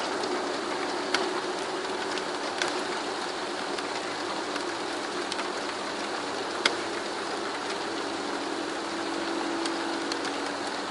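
Steady rain with scattered sharp drop clicks. Under it runs a low, steady humming drone of unknown origin, in a few tones, one of which swells for a couple of seconds near the end.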